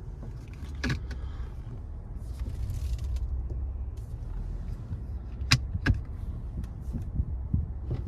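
2018 Nissan Maxima's 3.5-litre V6 idling steadily, with a sharp knock about a second in and two louder knocks close together about five and a half seconds in. The knocks are the kind of clunk the owner gets when shifting from reverse to drive.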